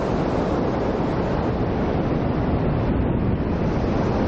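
Ocean waves surging and breaking, a steady rush of noise that is heaviest in the low end.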